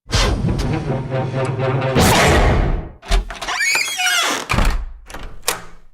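A quick run of door and latch sound effects: a drawn-out mechanical rumble with a steady low hum, then a loud rushing swell about two seconds in that fades away. A stretch of high wavering squeaks follows, like a creaking hinge, and a few sharp clicks come near the end.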